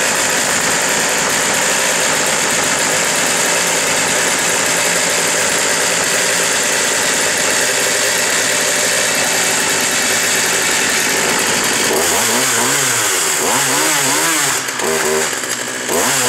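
Poulan 220 Pro two-stroke chainsaw running steadily, then revved up and down several times in quick succession over the last few seconds.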